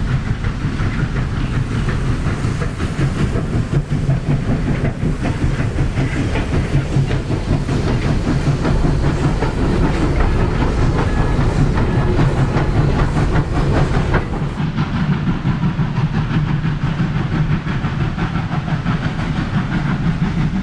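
Southern Railway No. 4501, a Mikado steam locomotive, working its passenger train: a steady rhythmic exhaust beat with steam hiss and the clatter of the cars on the rails.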